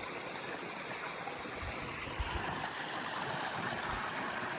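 Steady rush and splash of water along a sailboat's hull as it runs downwind in a following sea, with a few faint low thumps.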